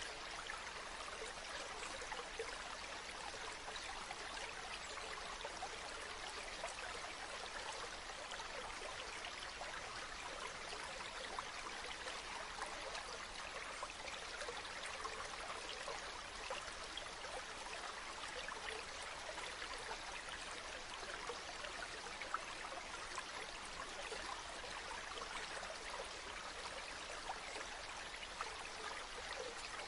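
River water flowing steadily, a constant babbling rush with many small splashes and trickles.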